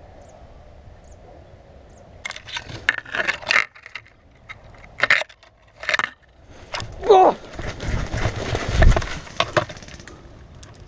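Irregular clattering and rattling, like handling noise and knocking on a body-worn action camera. It comes in clusters from about two seconds in, then as a denser, louder stretch with low rumble later on.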